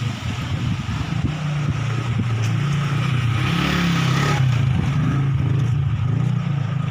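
Strong gusty wind storm blowing, with a heavy rumble of wind buffeting the microphone and a rushing hiss that builds to a strong gust about halfway through, then eases slightly.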